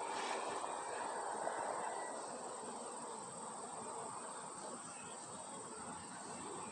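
Bees and other insects buzzing around flowering plants as a steady, quiet hum.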